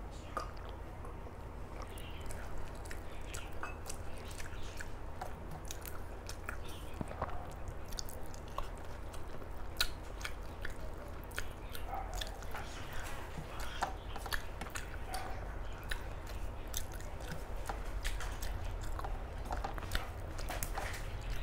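A person chewing and eating mouthfuls of rice and Bengali curry, with many small wet mouth clicks and smacks throughout. A steady low hum runs underneath.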